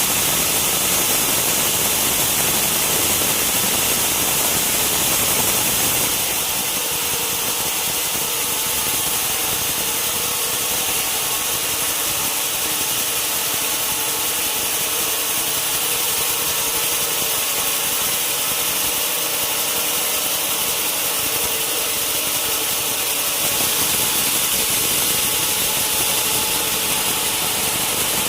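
Sawmill band saw running steadily, with a continuous hiss of blade and wood. About six seconds in the sound gets slightly quieter and thinner, leaving a steady hum.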